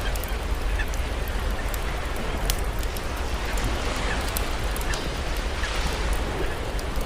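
Campfire crackling with scattered sharp pops over a steady rush of sea waves that swells and eases.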